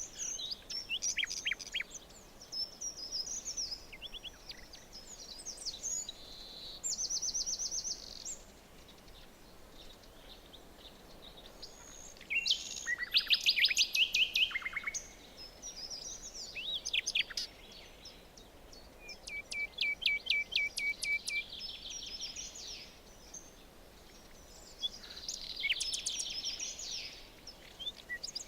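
Several songbirds singing in a forest chorus: overlapping whistled phrases, fast trills and rapid series of chirps, one after another, over a faint steady hiss.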